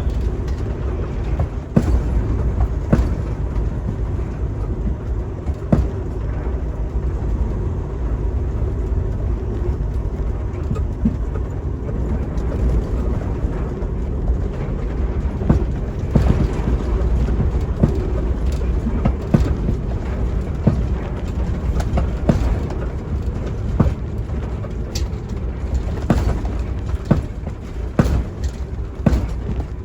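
Semi truck's Cummins diesel engine running, heard from inside the cab, with a steady low rumble and frequent irregular knocks and rattles as the truck moves.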